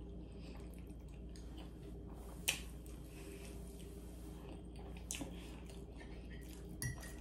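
A person quietly chewing a mouthful of food with the mouth closed, with a few short wet mouth clicks, the loudest about two and a half seconds in, over a faint low hum.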